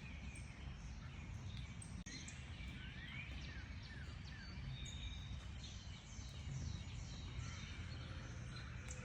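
Several small birds chirping and calling together in quick short notes, some falling and one rising in pitch, over a steady low background rumble.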